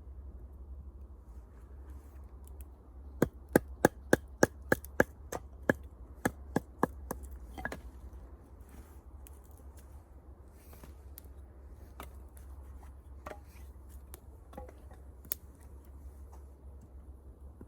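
Sharp wooden cracks of firewood: a quick run of about three a second for several seconds, then a few scattered ones, over a steady low rumble.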